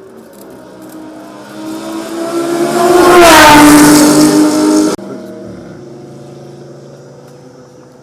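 A race car passing close at speed: the engine grows to a loud peak about three seconds in and its pitch drops as it goes by. The sound cuts off suddenly about five seconds in, leaving a fainter steady engine hum.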